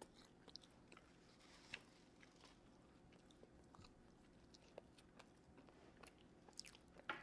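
Faint chewing of food: soft, scattered mouth clicks and small crunches, with low room hiss between them.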